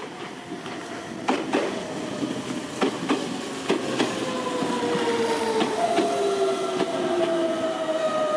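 Meitetsu electric commuter train pulling into a station: wheels clack over the rail joints, then a whine falls steadily in pitch as the train brakes toward a stop.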